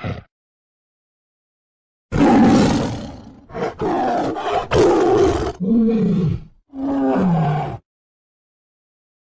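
Tiger roaring and growling: a series of rough roars begins about two seconds in and lasts about six seconds. The last two calls are lower and fall in pitch.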